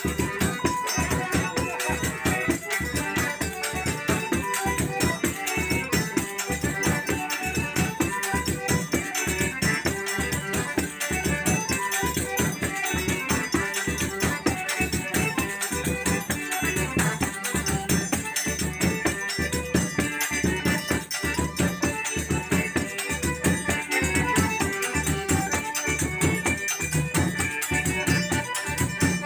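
Forró music with a zabumba drum keeping a steady, driving beat, along with a shaken or struck percussion part.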